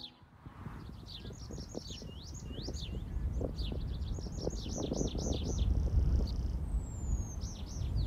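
A songbird singing: two runs of quick, high whistled notes that rise and fall, with a single falling whistle near the end. A low rumble lies underneath and grows louder toward the end.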